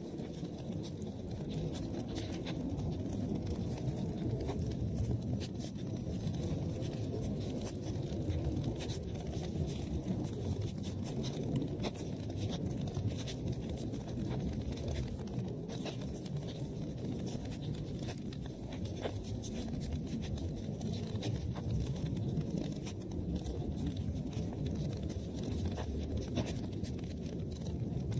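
Wood fire burning in an open fireplace: a steady low rumble of flames with frequent irregular crackles and pops.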